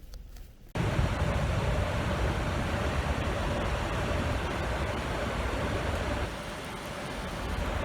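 Steady rush of blown air with a faint motor hum, starting suddenly about a second in: a strong draught of wind blowing around a sleeping cockatiel.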